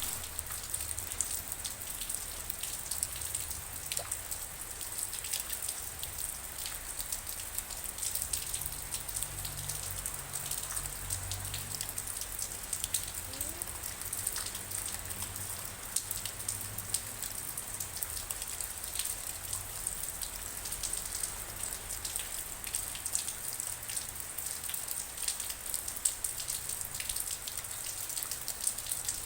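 Steady rain falling, with many individual drops ticking sharply on a surface over an even hiss.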